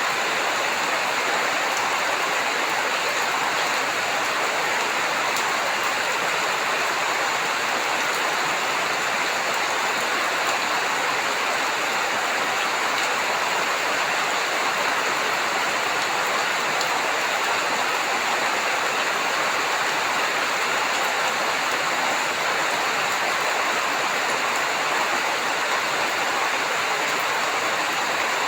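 Steady heavy rain falling, an even, unchanging hiss of water.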